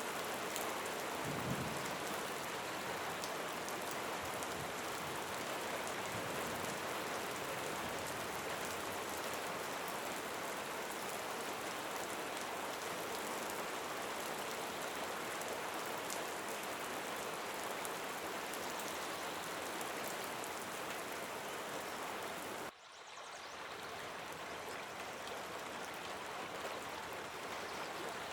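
Steady rain falling on a surface, an even hiss of drops. About 23 seconds in it cuts out for an instant and fades back in, like a splice in a looped recording.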